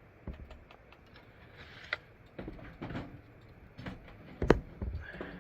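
Irregular clinks, knocks and clatters of camp cooking gear being handled and set down, with one sharp knock about four and a half seconds in.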